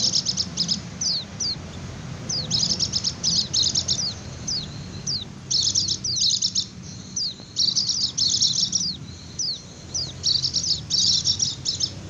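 White-eyes (pleci) doing their 'ngecir' call, the trilling chatter used as a lure for wild white-eyes: high, thin, downward-slurred notes mixed with rapid trilling bursts.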